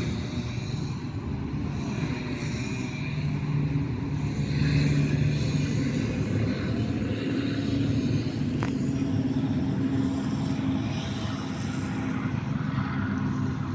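Steady low hum of a motor vehicle engine running, with a single sharp click about nine seconds in.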